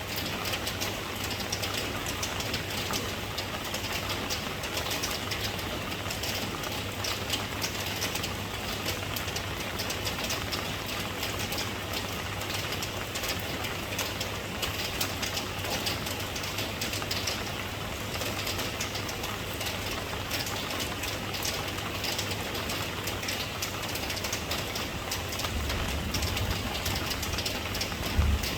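Steady rain falling, an even hiss full of fine drop ticks, over a constant low hum. A deeper low rumble swells in near the end.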